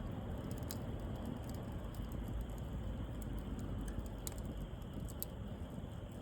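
Wood bonfire burning: a steady hiss and low rumble with scattered sharp crackles and pops, the brightest about four seconds in and again a second later.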